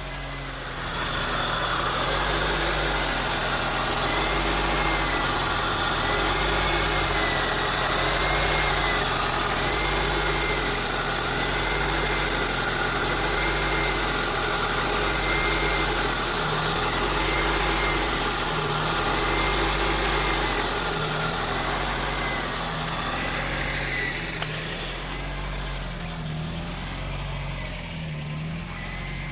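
2002 Honda CR-V's 2.4-litre four-cylinder engine idling steadily with its throttle body and idle air control valve freshly cleaned, cleaner smoke still burning off. A faint whine rises and falls about every two seconds, and the sound drops slightly near the end.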